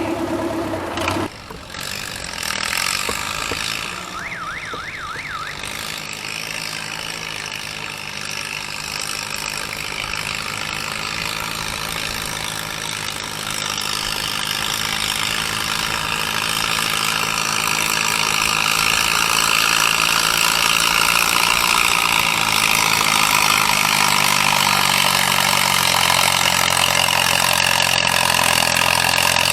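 Gas farm tractor engine running hard, growing louder about halfway through and then holding at high revs, as in a tractor pull.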